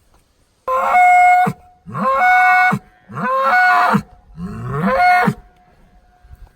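A bull bellowing four times in a row, each call lasting just under a second with a short pause between calls.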